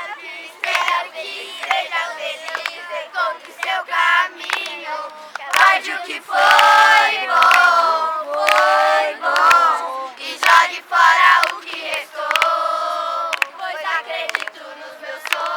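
A group of children chanting and singing loudly together, with shouts and some hand claps.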